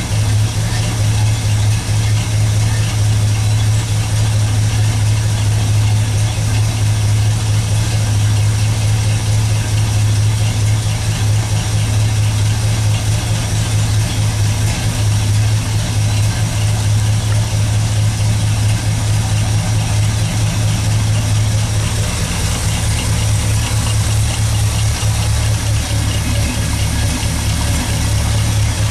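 1964 Pontiac GTO's carbureted 389 V8 idling steadily.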